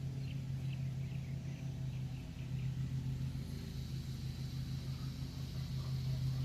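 A steady low mechanical hum, like a running engine or motor, with faint short high chirps over it in the first seconds.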